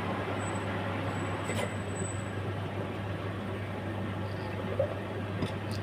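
Steady low hum and background noise with a few light clicks, one about a second and a half in and a couple near the end.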